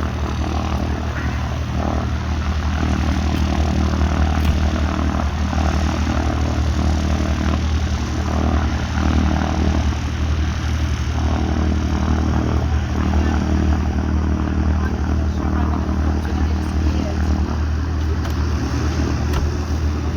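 Light aircraft's propeller engine running steadily, with a constant low drone.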